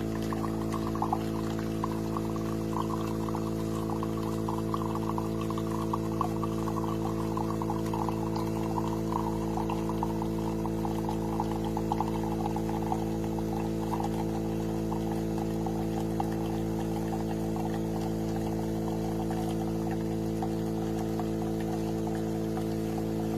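Philips 3300 Series espresso machine dispensing: its pump hums steadily while liquid streams and splashes into a cup. The streaming grows softer in the second half.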